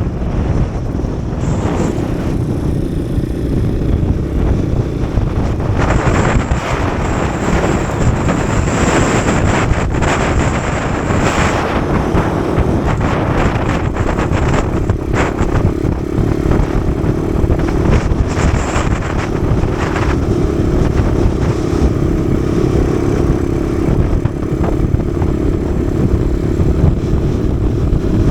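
Kawasaki KSR110's small single-cylinder four-stroke engine running under way, its note holding steady through the second half, under heavy wind buffeting on the microphone.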